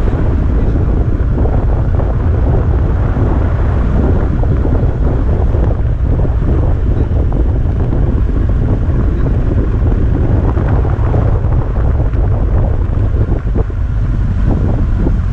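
Heavy wind buffeting the microphone over a steady low rumble, with no letup.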